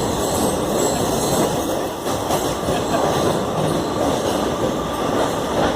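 Passenger train running at speed: a steady rumble and rattle of the coaches' wheels on the track.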